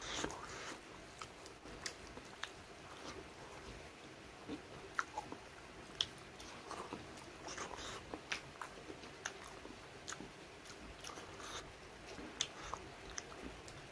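Close-up eating sounds: a man chewing mouthfuls of rice and chicken curry, with wet smacks and clicks scattered irregularly.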